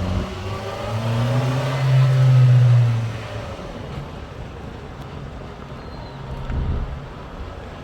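A motor vehicle's engine running with a steady drone that swells to its loudest around two seconds in, then fades away after about three seconds, as of a vehicle driving off.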